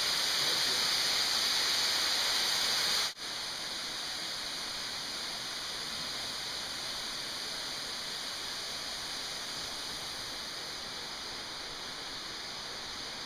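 Steady rush of falling water from a waterfall. It breaks off for an instant about three seconds in, then continues slightly quieter.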